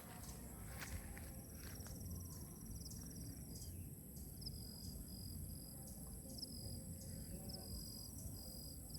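Forest insects droning steadily at a high pitch, with a short chirp repeated every half second or so from about halfway through, over a faint low rumble.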